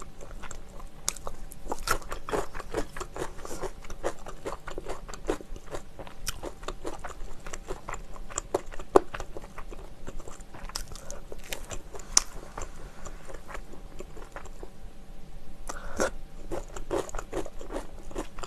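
Close-up chewing and biting of sauce-glazed fried chicken, with many small irregular crunches and mouth clicks throughout.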